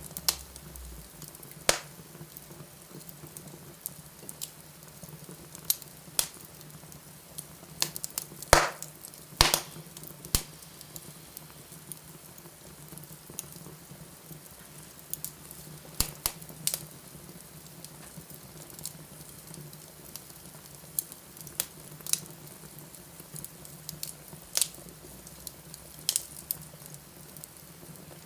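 Wood fire in a fireplace crackling, with irregular sharp pops. Two of the loudest pops come close together about a third of the way in, over a steady low hum.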